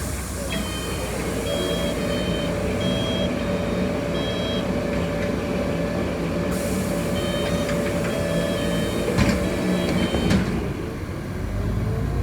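Warning beeps inside a city bus: a short high tone repeating about every two-thirds of a second over the steady hum of the running bus. It pauses, then resumes. A hiss of air starts partway through, and two sharp knocks come near the end.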